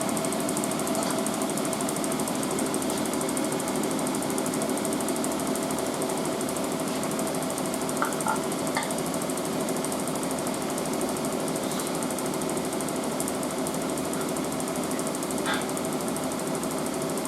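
Asko washing machine spinning steadily at 800 RPM in its final spin: a constant motor hum and drum rumble, with a few faint clicks about eight and fifteen seconds in.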